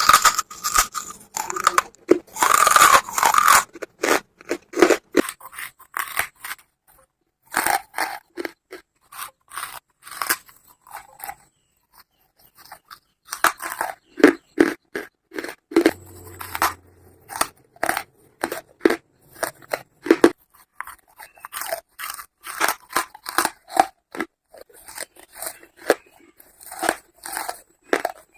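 A person biting and chewing charcoal close to the microphone: sharp, irregular crunches in runs, with a dense loud bite about two seconds in and brief pauses between mouthfuls.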